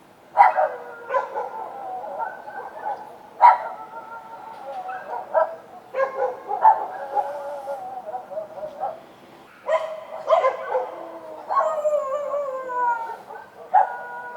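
Street dogs barking and howling, several voices overlapping in a run of sharp barks that trail into long drawn-out howls. A falling howl comes near the end.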